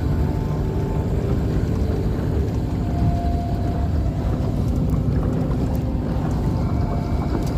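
Motorboat engine running steadily while the boat is underway, a constant low drone with no changes in speed.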